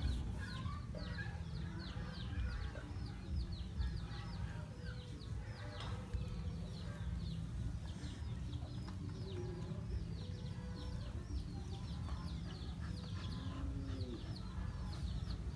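Birds chirping continuously in short, falling chirps, about three a second, over a low steady rumble.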